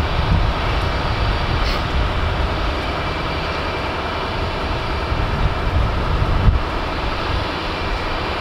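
Stopped Amtrak passenger train idling with a steady engine drone, with gusty wind rumbling on the microphone.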